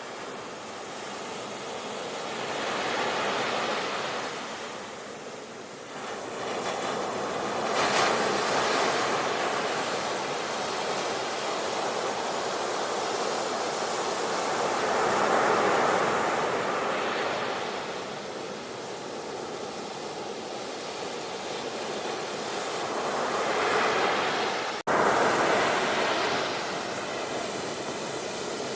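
Sea waves breaking and washing ashore, in a continuous rush that swells and recedes every several seconds. A momentary gap in the sound comes about four seconds before the end, then it resumes a little louder.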